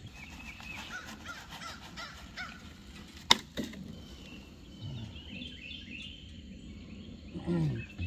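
Several birds chirping and calling in the background, with one sharp knock a little over three seconds in.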